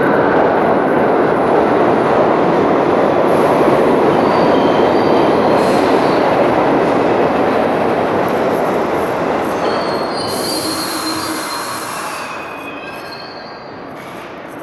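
A New York City subway train running through the station: a loud rumbling rush of wheels on rails with a high metallic wheel squeal now and then, loudest a few seconds in, then slowly fading as the train moves away.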